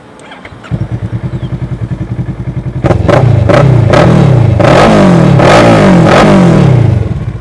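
Kawasaki ER-6n 650cc parallel-twin engine through an Akrapovic full-system exhaust, starting up just under a second in and idling. From about three seconds in it is revved in several quick blips before settling back to idle.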